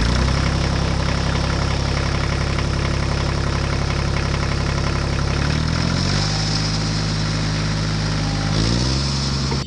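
Tractor engine idling with a steady low note; its pitch shifts about six seconds in and again near nine seconds.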